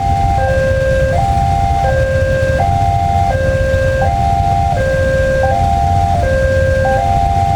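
Electronic warning signal of an Indonesian railway level crossing sounding its short stepped melody over and over, about once every one and a half seconds, over a steady low rumble.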